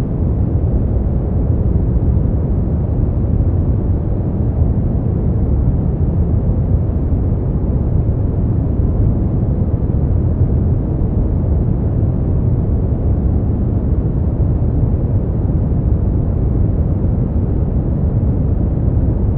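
Steady, unchanging synthetic noise track for sleep, deep and bass-heavy with little high hiss.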